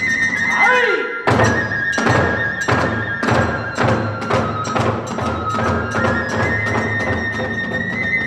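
Kagura festival music: a bamboo flute holding high notes while drums and hand cymbals strike a steady beat, about one and a half strikes a second. The beat starts up about a second in, after a falling glide and a brief drop.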